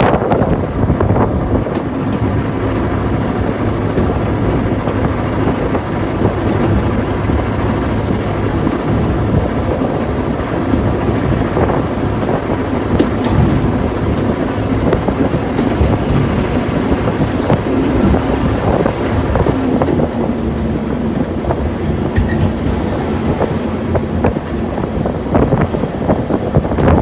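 Sentinel diesel shunter's Rolls-Royce engine running steadily under way, heard from inside the cab, mixed with rail noise and a few clicks and knocks. The engine note drops slightly about twenty seconds in.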